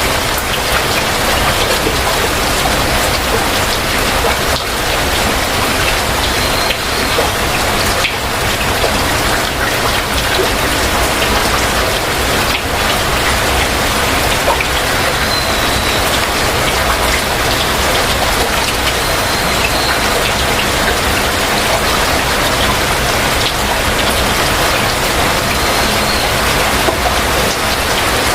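Heavy rain falling steadily, a dense even patter. A faint short high call from a bird recurs every few seconds above it.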